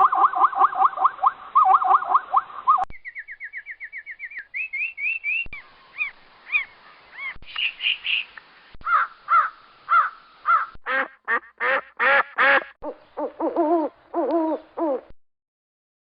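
A rapid string of animal calls, cut off about three seconds in, then a run of bird calls one after another: quick rising chirps, then varied calls, then a louder run of calls that turn lower and harsher near the end before stopping.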